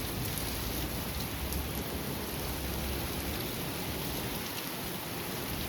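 Thunderstorm downpour with strong wind gusts: a steady rush of heavy rain, with wind buffeting the microphone in a low rumble that swells in the first couple of seconds and again near the end.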